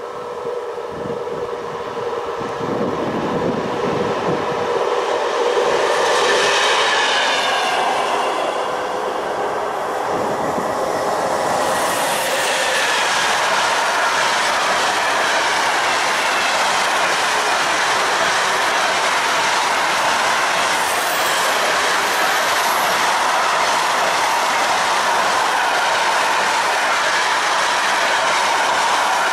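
A freight train hauled by a BR 211 (V 100 West) diesel locomotive approaches and passes close by, its engine loudest in the first several seconds. It is followed by a long string of intermodal pocket wagons carrying lorry trailers, rolling past with a steady clickety-clack of wheels over the rail joints.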